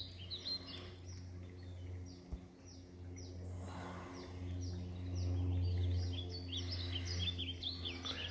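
Songbirds chirping in woodland: many short, high, repeated chirps that drop in pitch. Beneath them runs a low, steady hum that grows louder about five seconds in.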